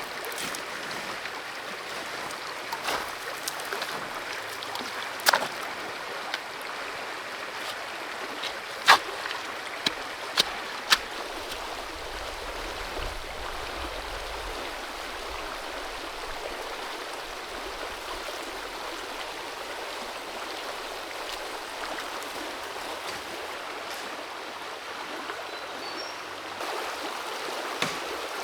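Forest creek water running steadily, with a handful of short sharp clicks or taps scattered through the first half; the loudest comes about nine seconds in.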